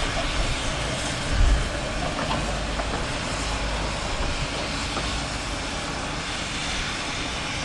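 Miniature railway train running along the track: a steady rumble and hiss, with a louder low thump about a second and a half in.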